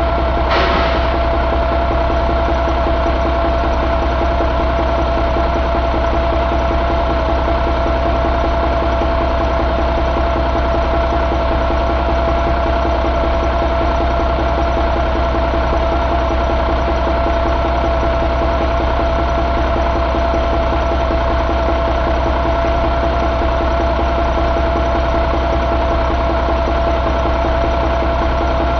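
A 2000 Cummins ISM inline-six diesel engine running at a steady, unchanging speed, with a steady high tone over the engine noise. A short burst of noise comes about half a second in.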